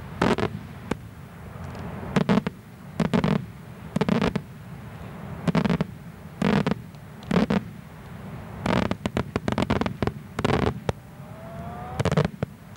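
Daytime aerial fireworks shells bursting in a string of loud sharp bangs, about one a second, with a quick cluster of bangs around the middle. A faint rising whistle comes near the end.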